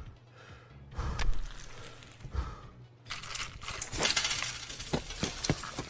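Coins being paid out in cash, clinking and jingling as they are set down. It starts softly, then from about halfway in becomes a quick run of small metallic clicks.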